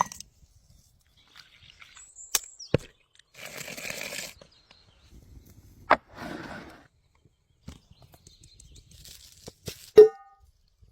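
Food-preparation handling sounds: a few sharp knocks and clicks, two short stretches of rustling and scraping, and about ten seconds in a louder clink that rings briefly like metal or a utensil struck on a bowl.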